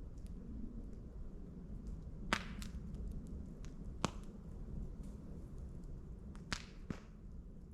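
Wood campfire crackling, with about five sharp pops from knots in the burning wood, the loudest a little before halfway and others in pairs, over a steady low rumble and faint small ticks.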